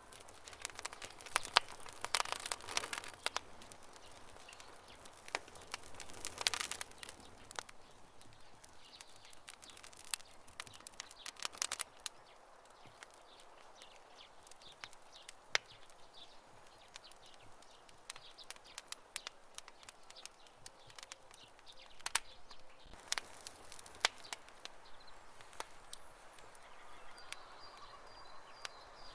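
Campfire crackling: wood popping and snapping in quick irregular clicks, with denser bursts of crackles about two seconds and six seconds in.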